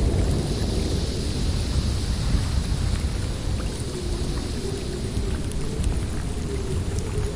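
Blizzard wind blowing steadily with a deep rumble and a hiss of blown snow. About halfway through, a faint low wavering howl rises out of it.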